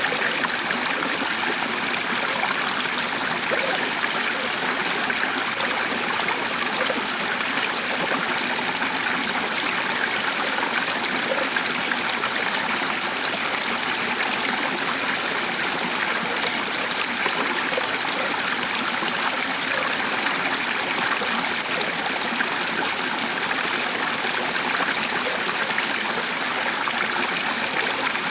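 A stream flowing steadily, its water running and trickling at an even level.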